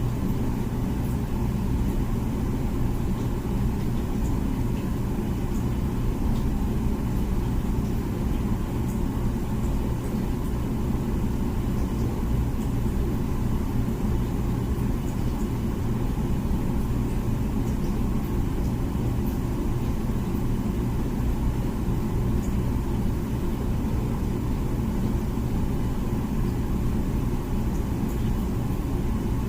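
Comfee dishwasher running its wash cycle: a steady low hum with an even rush over it, unchanging throughout.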